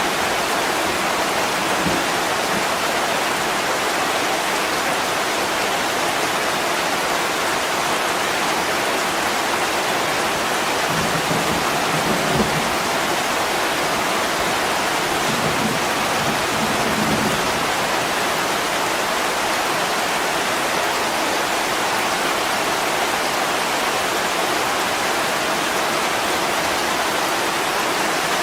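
Heavy rain falling steadily on a window, an even hiss that stays the same throughout. A few faint low rumbles come through about halfway.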